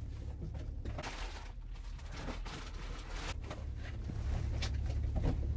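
Scattered light rustles and clicks, as of someone handling a bag or packaging, over a steady low hum.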